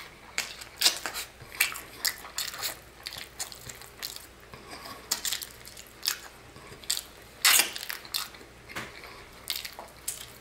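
Close-up crunching and chewing of a fried chicken drumstick with a hard, candy-like tanghulu sugar coating, along with gnawing at the bone. The crunches are sharp and irregular, and the loudest comes about seven and a half seconds in.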